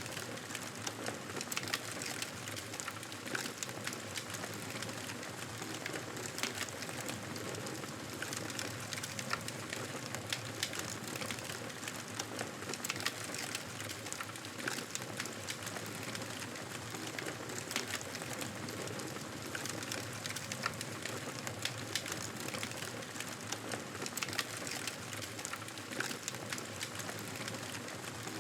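Wood fire crackling: a steady hiss with many small sharp pops scattered irregularly throughout.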